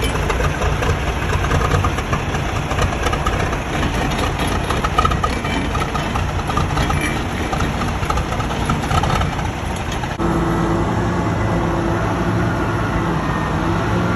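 Peterbilt 362 cabover semi truck's diesel engine running. About ten seconds in the sound changes abruptly to a steadier hum with clear, even tones.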